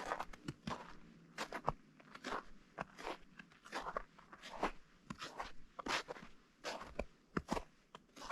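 Footsteps crunching on partly melted, granular spring snow at a steady walking pace, about one and a half steps a second.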